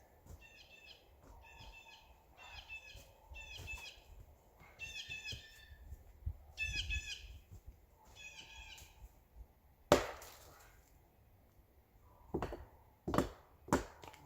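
Sharp cracks of wood during tree felling: one loud crack about ten seconds in, then three more close together near the end. Before them, a bird sings the same short chirping phrase over and over, about once a second.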